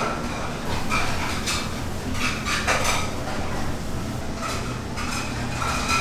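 Metal kitchenware clinking and clattering as it is handled: about half a dozen separate clinks that ring briefly, over a steady low hum.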